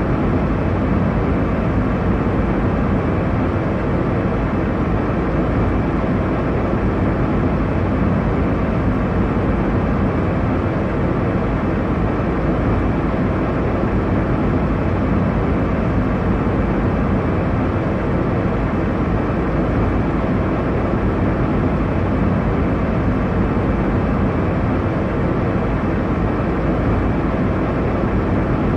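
Airliner cabin noise in cruise: a steady, even low roar of engines and airflow, strongest in the low and middle range, with no changes.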